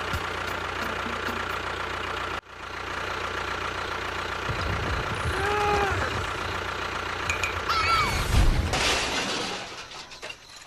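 A small engine running steadily. It cuts out briefly about two seconds in, and short sliding high-pitched sounds come through twice in the middle.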